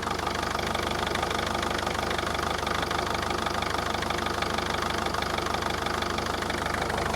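Mercedes-Benz Vito 638 2.2 CDI four-cylinder diesel idling cold with a steady, even clatter while the engine shakes hard on its mounts. The mechanic suspects a worn flywheel damper or dual-mass flywheel.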